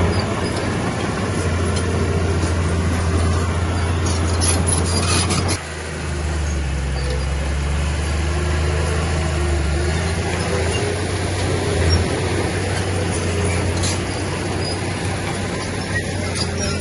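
Heavy diesel engine of earthmoving machinery running steadily, with metallic clattering about four to five seconds in. The engine note drops suddenly and changes at about five and a half seconds, then runs on steadily.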